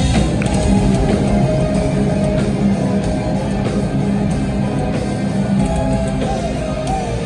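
Heavy metal band playing live: loud, dense distorted electric guitars over a drum kit.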